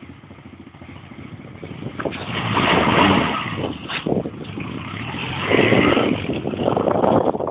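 A 300cc quad bike engine revving and accelerating. It is faint at first, swells loud about three seconds in, eases off, then surges again past the middle.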